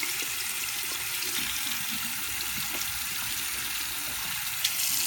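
Shower head spraying water steadily, an even hiss, with one brief click near the end.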